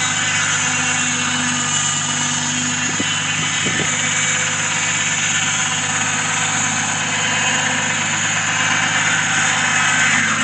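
An engine running steadily at an even speed, with a couple of brief knocks partway through.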